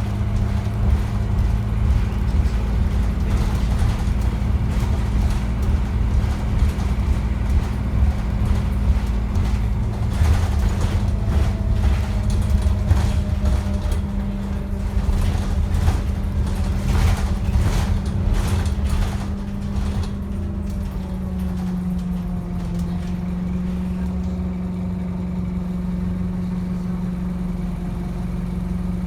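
Scania N230UD double-decker bus's diesel engine running with a steady drone and low rumble, with rattles and knocks in the middle stretch. About two-thirds of the way through it settles quieter and steadier.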